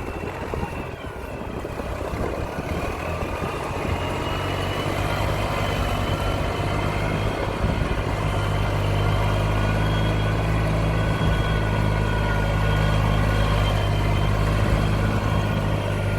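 Fiat 480 tractor's three-cylinder diesel engine running. It is a little uneven for the first few seconds, then holds a steady, even note.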